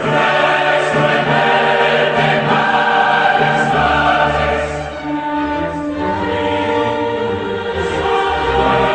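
Choral music with singing voices over an orchestral backing.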